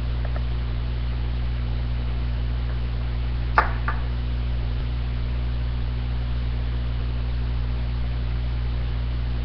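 Steady low electrical-sounding hum with a faint hiss. A short sharp click about three and a half seconds in is followed by a softer one just after.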